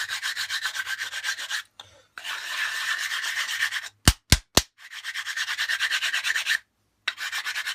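Rapid back-and-forth hand-rubbing strokes on abrasive paper, as when a knife-handle liner is sanded flat by hand, coming in several bursts with short pauses between them. Three quick sharp clicks come about four seconds in.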